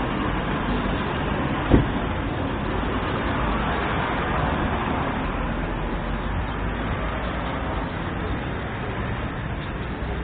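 Steady street traffic noise, a wash of passing cars and vehicles. A single sharp knock about two seconds in.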